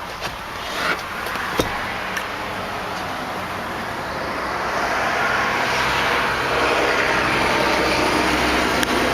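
A few sharp clicks and knocks in the first two seconds as the SUV's rear seat is pulled up and latched. Then motor-vehicle noise swells from about five seconds in and holds steady.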